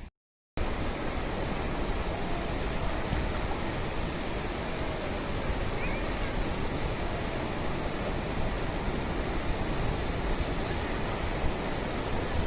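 Steady rushing noise of sea surf washing onto a beach. It cuts out completely for about half a second right at the start.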